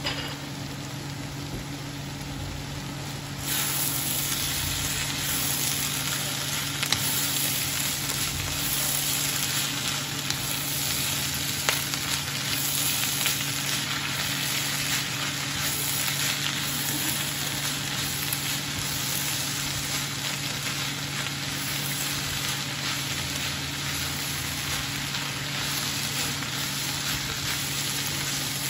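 Shredded bamboo shoots sizzling as they fry in a hot pan while a wooden spatula stirs them, with a few sharp clicks from the spatula against the pan. The sizzle steps up in loudness about three and a half seconds in.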